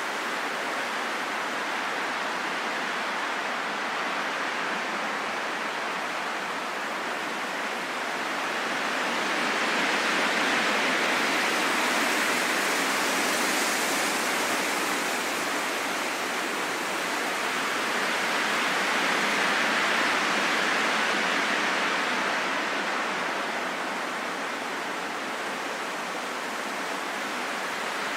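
Steady rushing wind with no howling tone, swelling into two slow gusts, about a third of the way in and again about two-thirds through.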